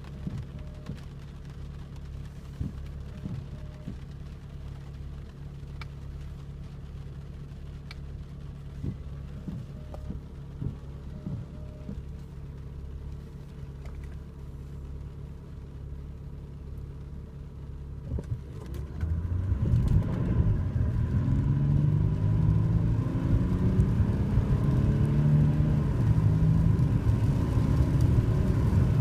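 Jaguar XJL's 3.0-litre twin-turbo V6 diesel running steadily at low revs, then, a little past two-thirds of the way in, going to full throttle and getting much louder. Its note climbs and drops back several times as the automatic gearbox upshifts during hard acceleration.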